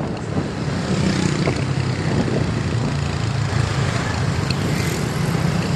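Heavy truck engine running steadily on the road, with road and traffic noise.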